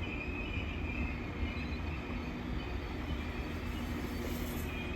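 Northern Class 195 diesel multiple unit at the platform: a steady low engine rumble with a faint high whine.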